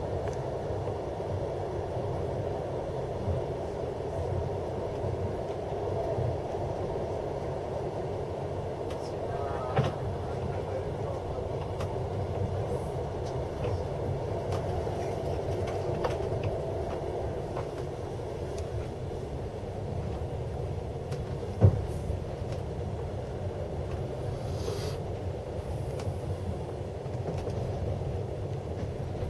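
Steady rumble of a moving passenger train heard from inside the carriage. A sharp knock sounds about a third of the way through, and a louder one about three-quarters through.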